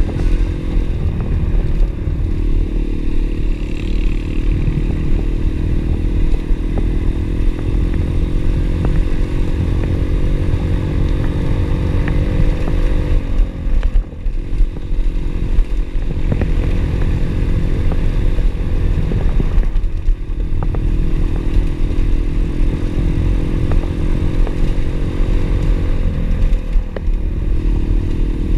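Pit bike engine running under way, its note dipping and picking up again three times: about halfway through, about two-thirds through and near the end.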